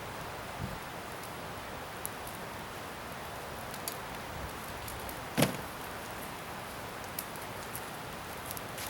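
Wood bonfire burning with a steady hiss and scattered crackles and pops, one sharp pop louder than the rest about five and a half seconds in.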